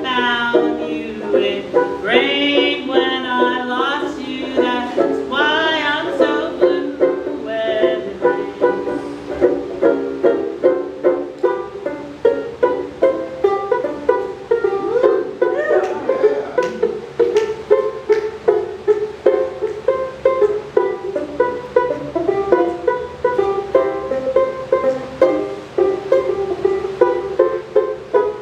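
Ukulele playing an instrumental break of a slow ballad, evenly strummed at about two strokes a second. For the first several seconds a wavering melody line rides over the strumming.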